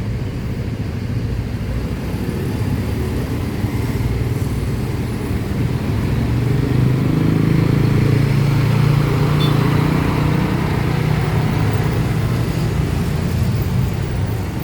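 Scania coach's diesel engine running at low speed as the bus pulls in, a deep steady drone that grows somewhat louder toward the middle.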